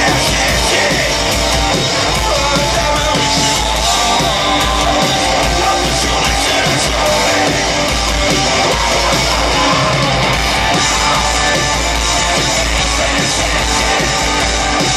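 Loud live punk-metal band playing: distorted electric guitars over bass and drums in a dense, unbroken wall of sound.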